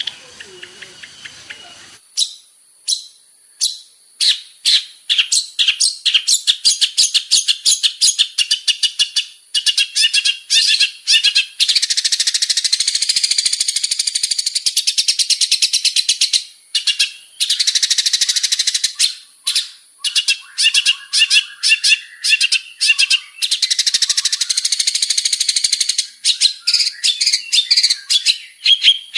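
Long-tailed shrike (cendet) in full, fast song: rapid runs of sharp high notes broken by dense chattering stretches, after a quieter first two seconds.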